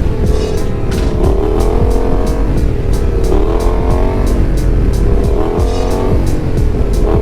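Yamaha XSR700's parallel-twin engine being revved repeatedly, its pitch rising and falling as the throttle is worked on the riding lot.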